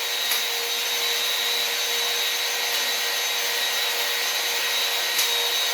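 Electric drill running at a steady pitch, spinning a cylinder hone against the cast iron wall of a Ford 289 V8 bore. The hone is being held straight for the finishing pass that leaves the crosshatch finish.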